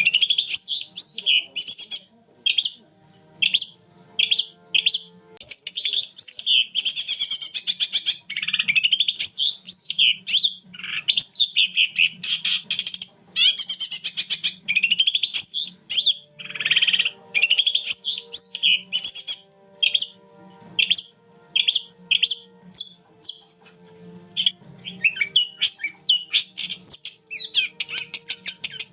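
Long-tailed shrike (cendet) singing almost continuously in fast, varied chattering phrases and rapid trills, broken by short pauses.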